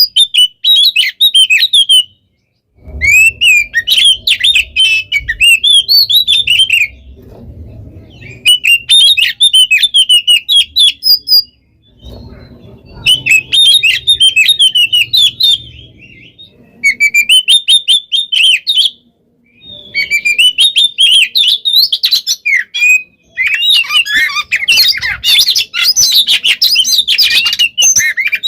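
Oriental magpie-robin (kacer) singing loudly in long bursts of fast, varied whistles, trills and chattering notes, with short breaks of about a second between bursts and the densest, most continuous stretch near the end.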